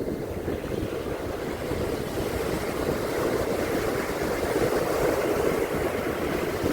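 Ocean surf washing onto a beach, with wind rumbling on the microphone. The wash swells gradually louder toward the middle.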